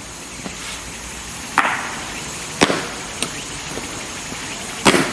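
Three loud, sharp knocks with fainter clicks between them from an honor guard's rifle drill: rifles being slapped and stamped down on the ground.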